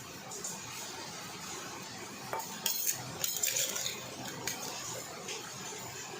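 Cutlery clinking and scraping against a dish as food is stirred, with a cluster of sharper clinks about halfway through.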